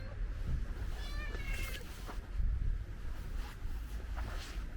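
A ginger stray cat meowing once about a second in, a short wavering meow as it asks for food. A few faint clicks follow over a low steady rumble.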